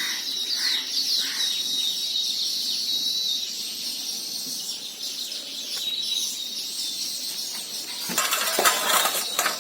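Hot oil sizzling and crackling steadily as sakinalu deep-fry in a pan. Near the end a few sharp clinks, like a utensil knocking against the pan.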